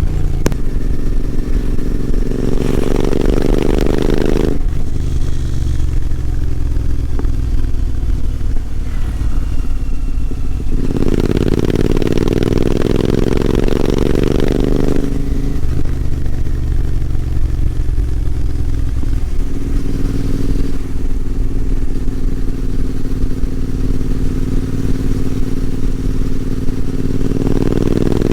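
Royal Enfield Continental GT 650's 648 cc parallel-twin engine running through its exhaust. The pitch climbs under throttle over a few seconds and then falls back, three times.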